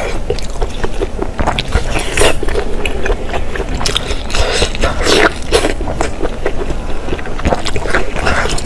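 Close-miked eating sounds: wet chewing and biting of food, with many irregular mouth clicks and smacks.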